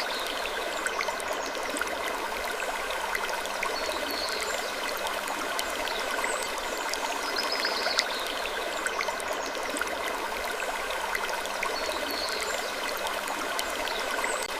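Steady, stream-like rushing noise with faint scattered clicks, and a short higher-pitched sound that comes back about every eight seconds, as in a looped ambience track.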